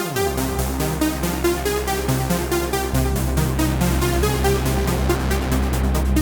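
Electronic sequenced music played on a Polyend/Dreadbox Medusa synthesizer: a fast, even pulsing rhythm with stepped note patterns over a sustained bass. A bass note glides down in pitch right at the start.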